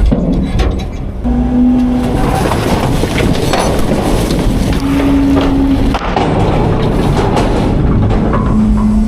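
Autocar-Heil front-load garbage truck working its hydraulics: the engine runs steadily under load while a steady hydraulic whine comes and goes in stretches of about a second, rising in pitch near the end, with a few metal clanks a few seconds in.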